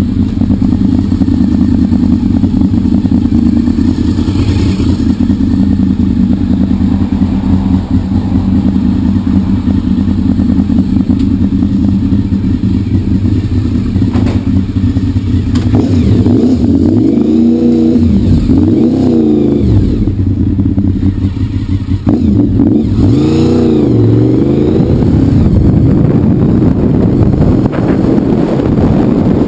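Honda VFR750's V4 engine idling steadily, then revving as the motorcycle pulls away about halfway through. It revs up and eases off twice as it climbs through the gears.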